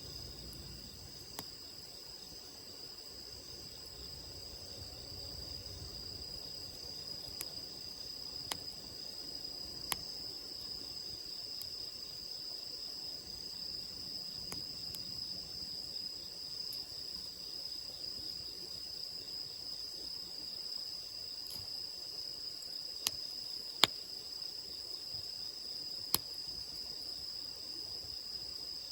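Crickets chirping in a steady high trill, with a handful of sharp pops from a crackling wood campfire scattered through, the loudest two close together about three-quarters of the way in.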